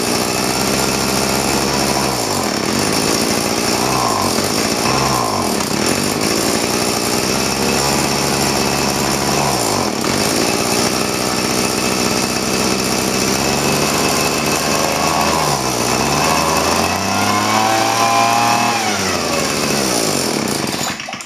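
Small 31cc two-stroke leaf blower / shredder vac engine running, its pitch dropping and climbing back several times as the throttle is eased and opened again. It shuts off abruptly at the very end.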